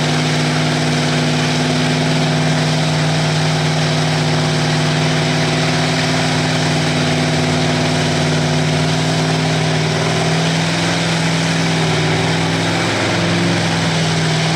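Mud-bog truck engine running loud at high, steady revs, one held pitch that wavers slightly near the end.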